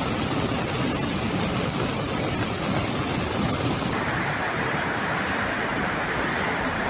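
Loud, steady rushing of water from torrential rain and floodwater, its sound changing abruptly about four seconds in.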